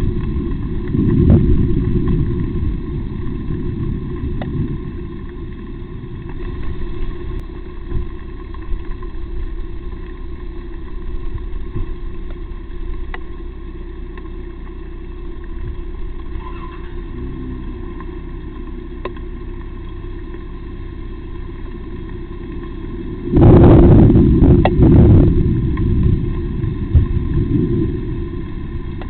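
Low rumbling noise on an outdoor camera's microphone, with a few faint clicks and a louder stretch lasting about two seconds near the end.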